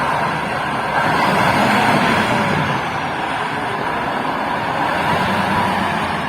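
Kirovets K-700 tractor's turbocharged YaMZ-238 V8 diesel engine running steadily, swelling slightly louder for a second or so near the start.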